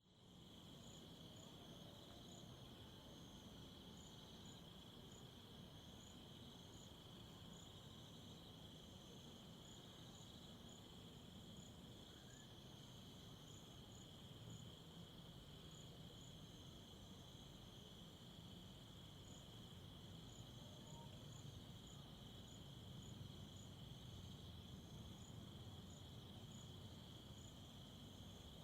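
Crickets chirping faintly: one steady, unbroken high trill, with short, irregular higher chirps over it and a low background rumble.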